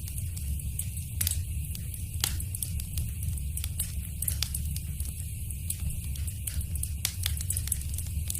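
Wood fire burning in a fireplace, crackling steadily with irregular sharp pops, the loudest just after one and two seconds in, over a low rumble of the flames.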